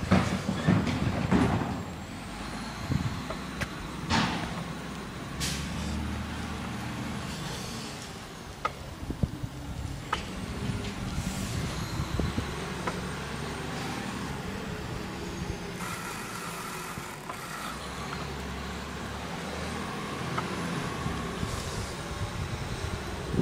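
Garbage truck running steadily as it picks up yard waste, with scattered knocks and clatter. A burst of air hiss comes about two-thirds of the way through.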